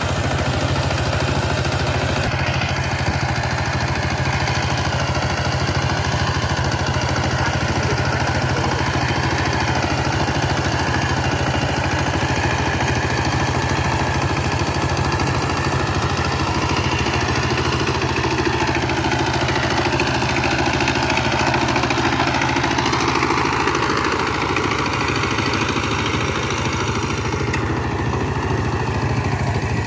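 Power tiller diesel engine running steadily at an even level, with a fast, regular firing beat.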